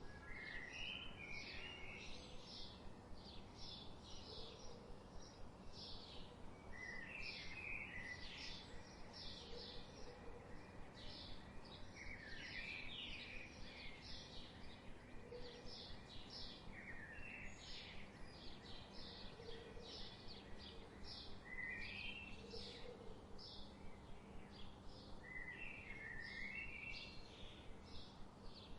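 Songbirds chirping and calling in an outdoor ambience: many short, high chirps in quick series with some lower warbling phrases, over a faint steady low hum.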